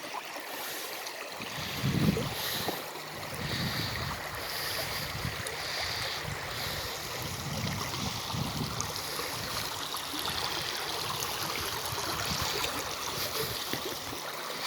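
Water of a small creek running over rocks, a steady rush, with occasional low rumbles of wind on the microphone.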